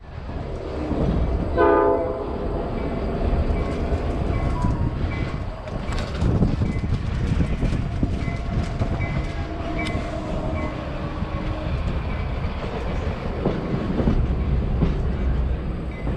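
Passenger train rolling along the track, heard from aboard: a steady low rumble with scattered wheel clicks. A short blast of the locomotive horn comes about two seconds in, and a long steady high tone runs through the middle.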